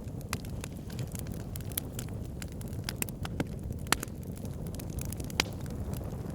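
Fire crackling in a fireplace: a steady low rumble of flames with frequent sharp pops, two louder ones about four and five and a half seconds in.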